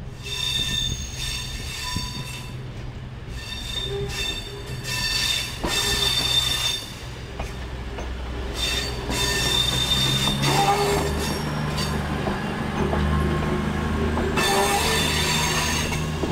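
CrossCountry Voyager diesel multiple unit arriving slowly. Its wheel flanges squeal in high, repeated bursts on the curved track over the low running of its underfloor diesel engines, which grow louder as the carriages pass close by about ten seconds in.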